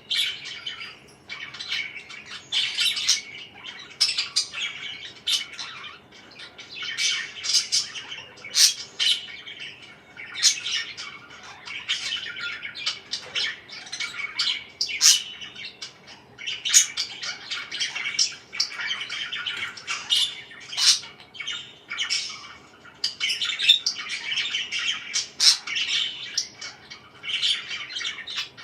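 Pet parakeets chirping and squawking without pause, many short, sharp calls overlapping.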